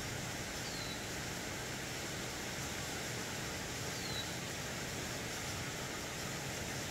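Steady outdoor background hiss, with a bird giving a short, high, falling call twice, about three seconds apart.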